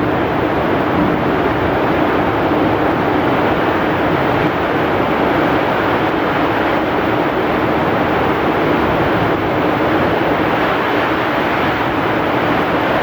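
Heavy rain falling steadily with strong wind, a dense, even rush of noise that keeps up at one level.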